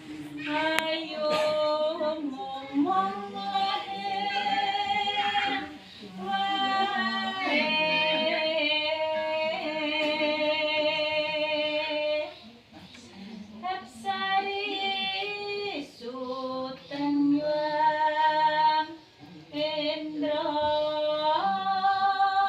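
A woman singing a slow song in long held notes with a wavering vibrato, with brief pauses between phrases.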